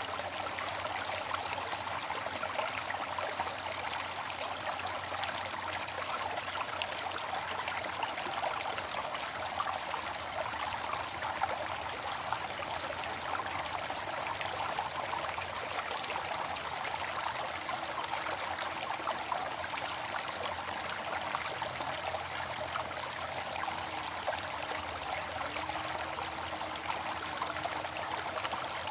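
Water fountain running steadily: falling water splashing and trickling into a pool.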